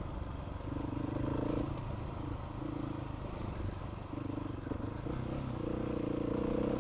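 Adventure motorcycle engine running at low speed, its note rising and easing several times as the throttle is worked through a small creek crossing.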